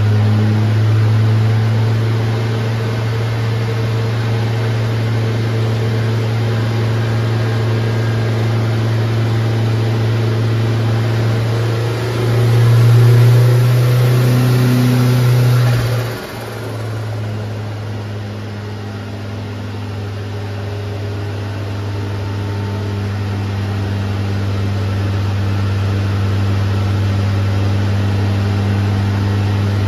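Turbocharged 8-valve four-cylinder engine of an MK3 Golf GTI running at steady revs. It grows louder about twelve seconds in, drops off suddenly about four seconds later, then slowly builds again.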